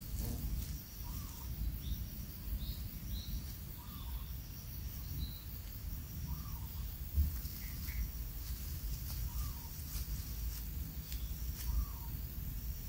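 Outdoor ambience: a short bird call repeats every two to three seconds, with scattered higher chirps and a faint high insect-like buzz that comes and goes, over a steady low rumble.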